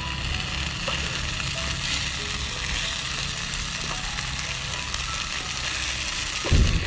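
Battered small shrimp frying in hot oil with a steady sizzle, a large batch poured in at once that is clumping together. A brief low thump comes near the end.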